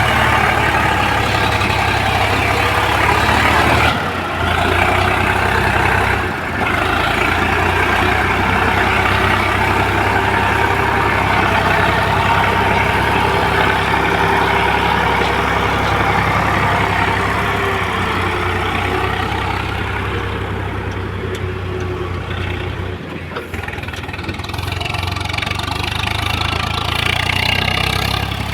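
Heavy diesel machinery, an excavator and tractor at work, running steadily at a working pace, with brief dips in level about four and six seconds in and again near the end.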